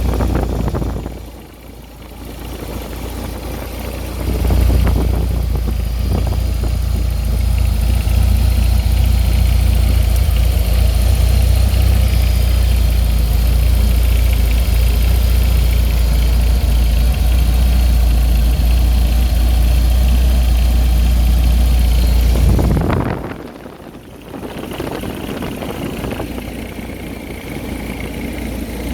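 BMW E36 318ti's M42 1.8-litre twin-cam four-cylinder engine running steadily at idle. Its deep low rumble drops away twice for a few seconds, about a second in and again about 23 seconds in, then returns at full level.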